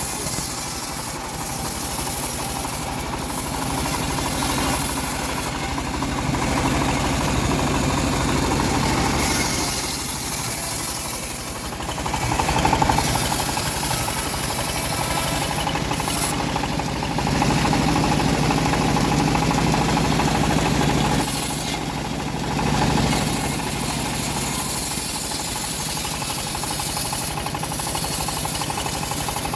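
Engine-driven homemade bandsaw sawmill running and sawing through a teak log, a steady dense mechanical noise over a low engine hum that eases off briefly twice.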